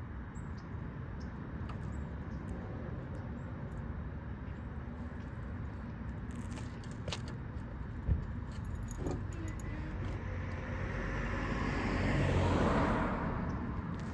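A car passing by, building up to its loudest about twelve seconds in and then fading. Before it there is a steady outdoor background with a few light clicks and a single thump about eight seconds in.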